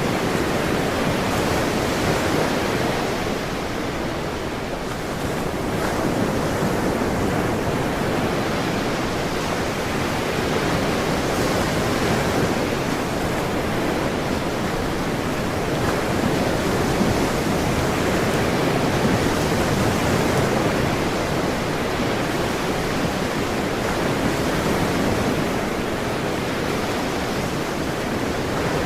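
Ocean surf: waves breaking and washing ashore in a steady rushing noise that swells and eases every few seconds.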